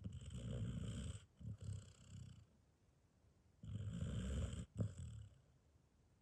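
Border collie snoring in deep sleep: two rumbling snores, one at the start and one about three and a half seconds in, each broken by a short pause.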